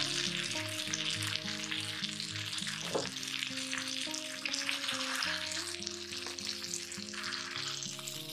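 Marinated chicken leg sizzling steadily as it fries in hot oil in a pan, with a short knock about three seconds in. Soft background music plays underneath.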